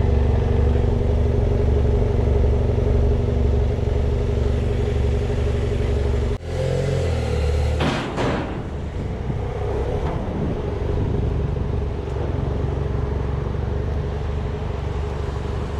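BMW F800GS parallel-twin motorcycle engine running steadily under way, with road noise. About six seconds in the sound breaks off abruptly and comes back changing in pitch and level.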